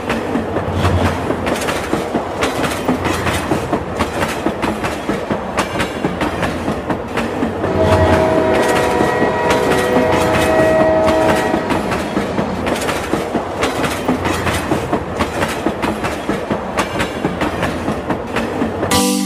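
Train sound: wheels clicking over rail joints in a steady clickety-clack rhythm, with a train horn sounding for a few seconds in the middle.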